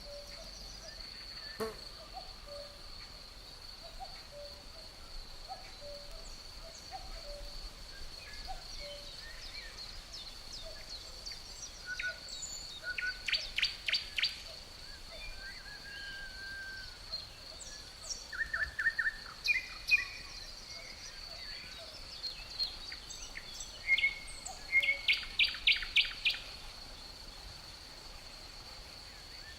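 Birds chirping and calling, with quick runs of sharp repeated notes about halfway through and again near the end, over a steady high-pitched insect drone.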